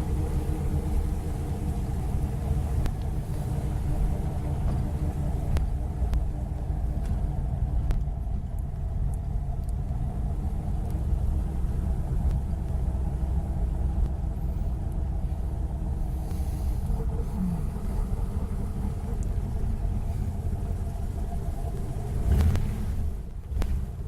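A car engine running steadily with a low rumble. It briefly gets louder near the end.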